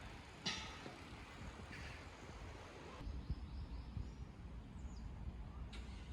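Quiet outdoor ambience: a low steady hum of distant traffic with a few faint bird chirps.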